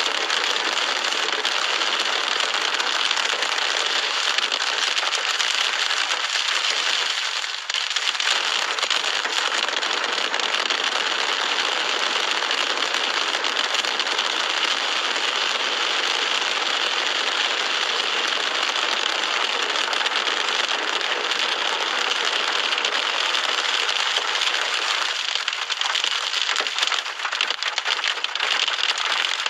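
Storm with wind-driven heavy rain: a steady rushing hiss that dips briefly about seven seconds in and flutters unevenly near the end.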